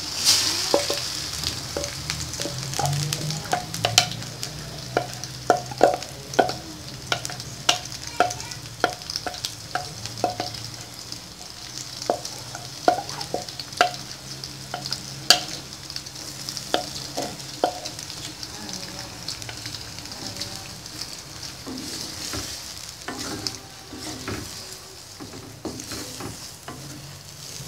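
Squid in red chilli-coconut spice paste poured into hot oil in an aluminium wok, sizzling loudest as it lands, then frying on. A spatula knocks and scrapes against the wok as the curry is stirred, the knocks coming thickly at first and thinning out toward the end.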